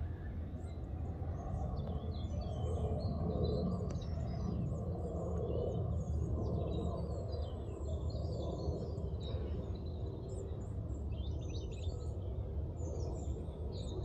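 Small birds chirping and calling in short, scattered bursts over a steady low rumble of outdoor ambience.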